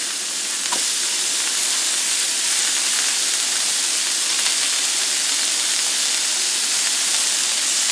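Melted butter and thin strips of beef steak sizzling on a hot electric griddle: a steady, even hiss.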